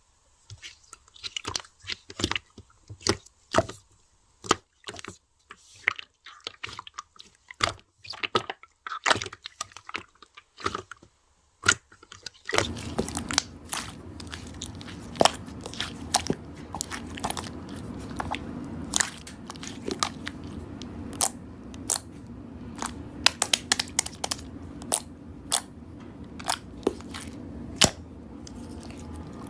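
Slime being squeezed and pulled by hand, giving an irregular run of sharp crackling clicks and pops. About twelve seconds in, a steady background hiss sets in beneath the clicks.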